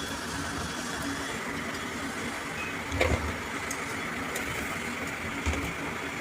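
Engine running steadily, with a sharp metallic knock about halfway through and a lighter one near the end.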